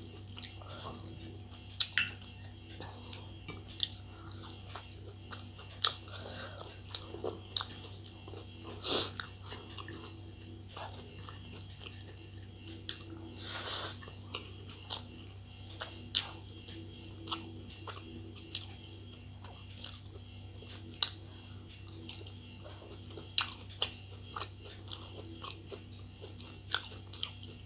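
A person eating close to the microphone: scattered wet lip smacks and chewing clicks with pauses between them, over a steady low hum.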